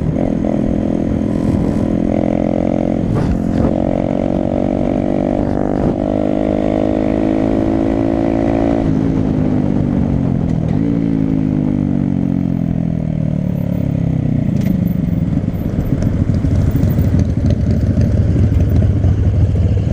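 Honda Grom's small single-cylinder engine under way: its pitch climbs steadily for several seconds as the bike accelerates, then falls as the throttle closes and it slows. A low rumble takes over near the end.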